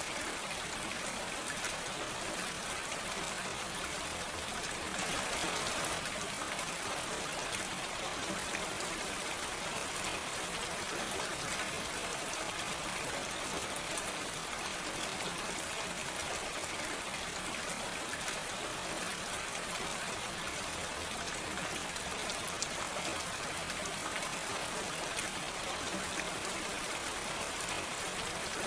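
Steady, gentle rain with no thunder: an even hiss of falling rain with faint individual drop ticks, swelling slightly for a moment about five seconds in.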